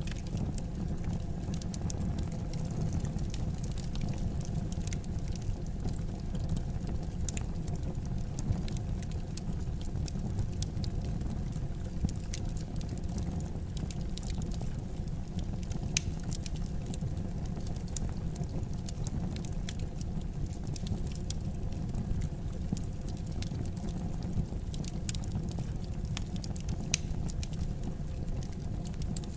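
Wood fire burning in a fireplace: logs crackling and popping irregularly over a steady low rumble of the flames.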